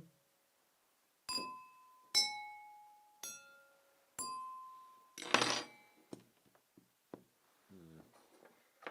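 Objects struck one at a time, each ringing briefly at a different pitch: four clinking strikes about a second apart, then a louder clatter about five seconds in.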